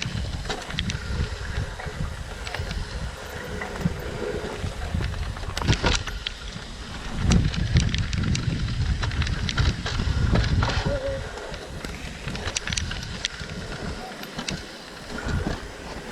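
Mountain bike riding down a dirt trail: wind buffeting the microphone and tyre rumble, with scattered sharp knocks and rattles from the bike over rough ground. The rumble is loudest from about seven to eleven seconds in.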